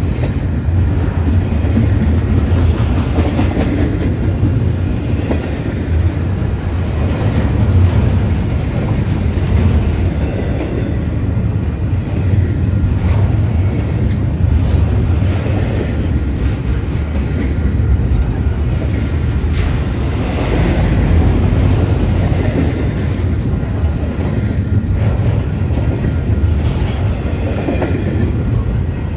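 Union Pacific intermodal freight train's cars rolling past at speed: a steady loud rumble of steel wheels on rail, with irregular clatter.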